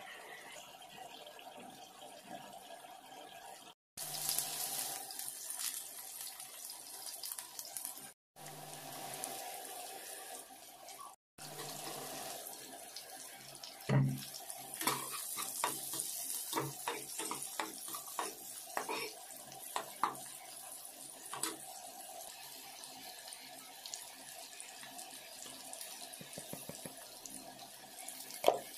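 Kitchen cooking sounds in short cuts: a pot of beef curry simmering, then sliced onions and green chillies sizzling in oil in a wok. A knock about halfway in is followed by a metal spatula scraping and clattering against the pan in quick strokes; the sound drops out briefly three times early on between clips.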